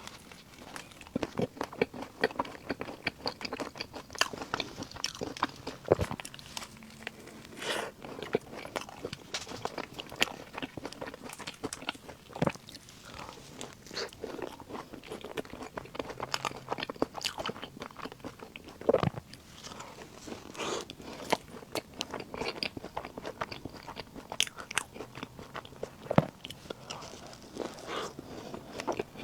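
Close-miked eating of puff snacks: bites into the puffs and chewing, heard as many small irregular clicks and crunches with a few sharper bites.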